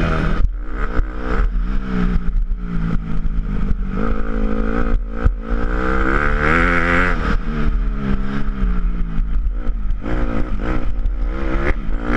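Motocross dirt bike engines revving up and down as they ride the track, the pitch rising and falling again and again.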